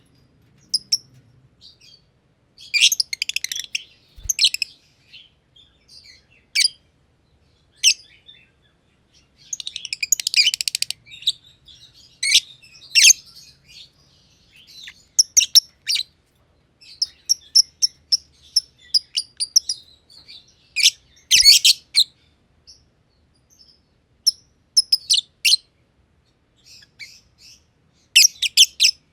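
Masked lovebirds (personata) chirping: sharp, high-pitched calls, some single and some in quick rapid-fire runs, with short pauses between them.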